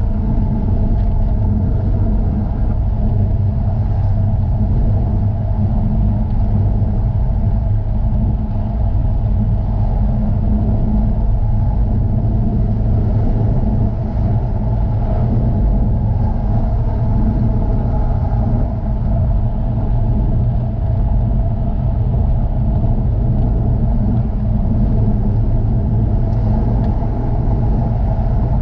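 Jaguar F-Type sports car engine running steadily on the move, its note holding one pitch over a heavy low road rumble.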